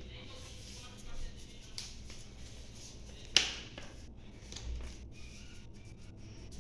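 Hands handling and folding paper: soft rustles and scrapes with a few small taps, and one sharp snap about three and a half seconds in, the loudest sound.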